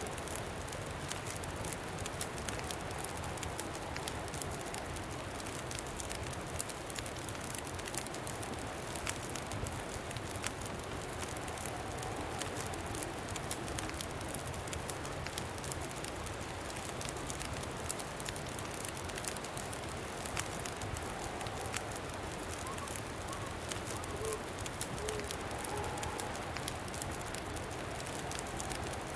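Campfire crackling, with frequent sharp pops, over a steady rush of wind.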